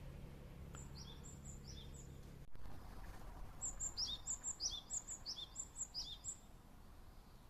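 A small songbird calling: a series of short, high chirps, each sliding down in pitch, a few at first and then a quicker run of about eight. A low hum underneath cuts off suddenly about a third of the way in.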